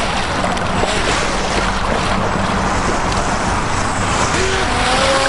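Radio-controlled jet boats with brushless electric motors running on a river, their steady motor hum over a constant rush of water noise.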